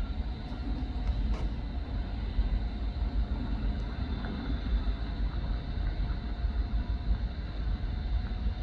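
Norfolk Southern freight train passing with a steady low rumble.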